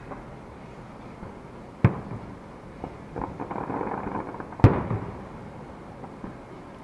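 Fireworks shells bursting: two sharp booms about three seconds apart, with a patter of crackling pops between them.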